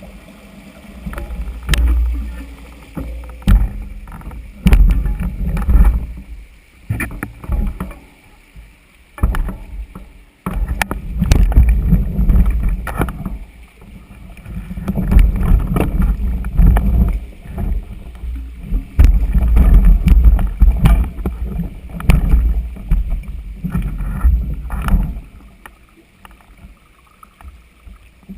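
Wind buffeting a camera microphone on a moving mountain bike, a loud rumble that comes in gusts and eases off near the end. Scattered sharp clicks and rattles of the bike over rough trail run through it.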